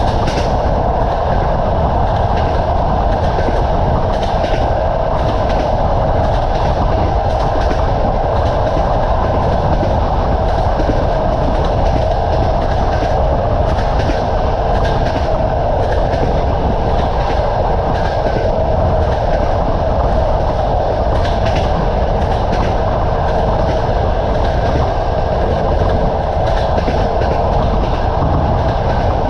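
Train running steadily, its wheels clattering over the rails with light clicks from the joints.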